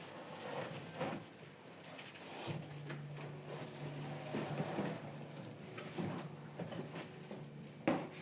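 Faint handling noises in a small room: light knocks, taps and rustling, with a steady low hum coming in about two and a half seconds in and a sharper knock near the end.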